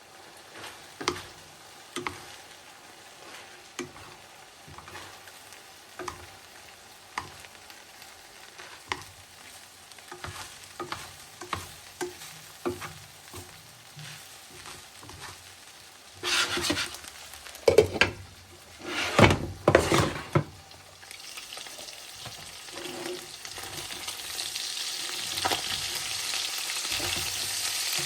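Utensil tapping and stirring in a pan, with a louder spell of scraping and clattering past the middle. Then sizzling from hot oil starts and grows steadily louder toward the end.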